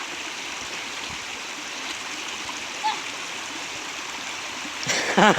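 Creek water rushing steadily. Near the end a loud shout cuts in, rising and falling in pitch.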